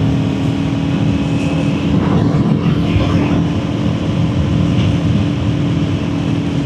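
Kawasaki Ninja 400 parallel-twin engine running at a steady cruise, with wind rushing past the rider.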